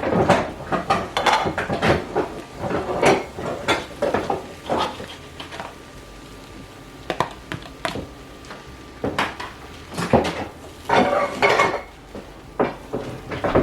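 Dishes, pots and metal utensils clattering in irregular knocks and clinks, with a quieter stretch in the middle.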